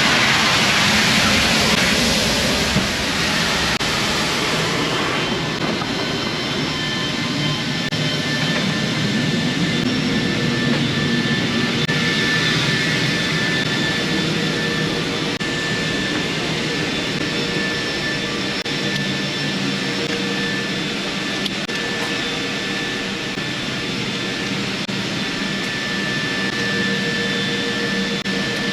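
C-17 Globemaster III's Pratt & Whitney F117 turbofan engines running on the ground, a steady jet noise with a high whine over it. A louder hiss in the first few seconds fades away about five seconds in.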